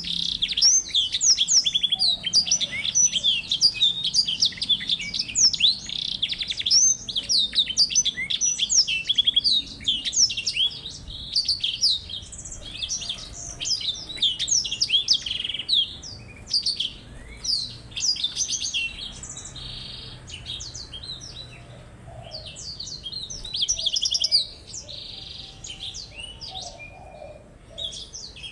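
Songbirds singing: a long, rapid stream of high chirps, warbles and trills, densest through the first half and sparser after about sixteen seconds, with a brief rush again near the end.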